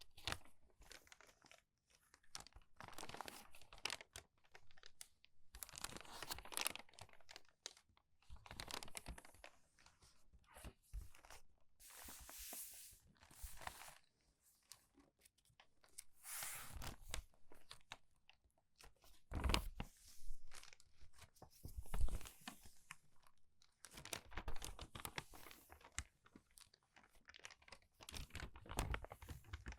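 Crumpled paper pages turned quickly one after another, each turn a crinkly crackle and rustle; two turns about two thirds of the way through are the loudest.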